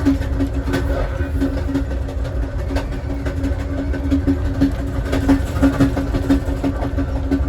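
Passenger train car rolling along the track: a steady low rumble of wheels on rail, with a hum that swells about three times a second and scattered light clicks.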